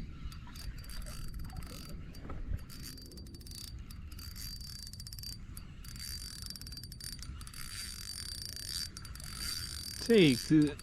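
Fishing reel being cranked to retrieve line: fast, fine gear ticking with a faint steady whine.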